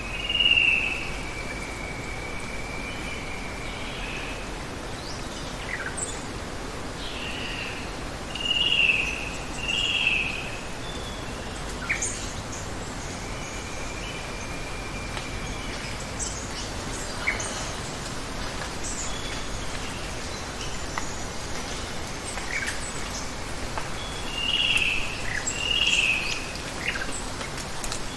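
Steady rush of running water with birds calling over it: a loud call right at the start, a pair of calls about a third of the way in and another pair near the end, with a thin long held whistle twice and scattered short high chirps between.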